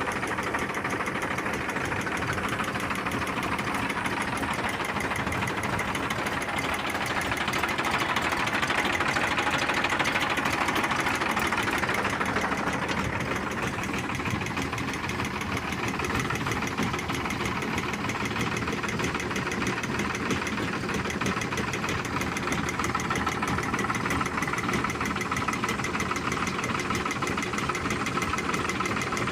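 Engine of a spray pump set running steadily, a little louder for a few seconds about a third of the way in.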